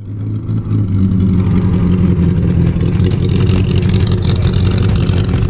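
Car engine running loud and steady with a low, even rumble.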